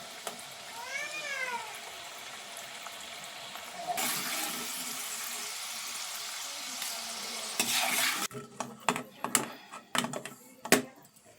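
Oil sizzling in a frying pan, much louder from about four seconds in until it stops suddenly near eight seconds, followed by a string of sharp clinks and knocks of a utensil against the pan. A cat meows once about a second in.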